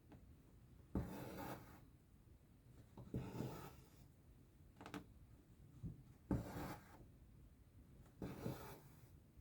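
Soft swishes of embroidery thread drawn through cross-stitch fabric, about five pulls a couple of seconds apart.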